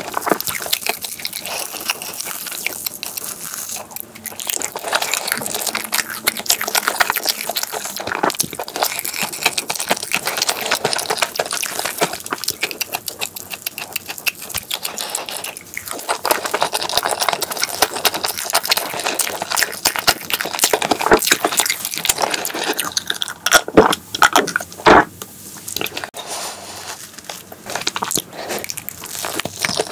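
Close-miked chewing and mouth sounds of eating chocolate crepe cake layered with cream, with a fork cutting into the cake. A few louder clicks a little past two-thirds of the way.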